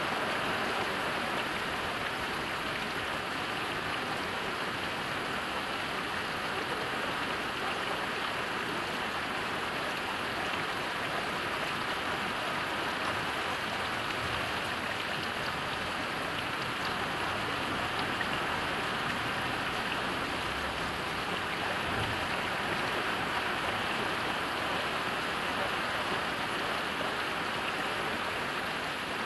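Heavy rain falling steadily, an even hiss of drops on surfaces with no pauses or thunder.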